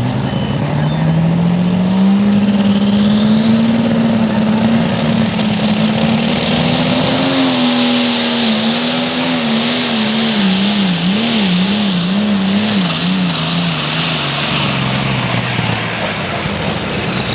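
Super stock pulling tractor's turbocharged diesel engine running at full power under load, with a high turbo whine over it. The revs climb over the first few seconds and hold. The pitch then surges up and down several times as the tractor bogs and bounces, and winds down near the end as the pull finishes.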